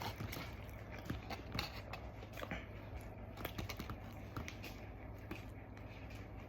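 A person chewing a mouthful of burger with faint, irregular wet mouth clicks.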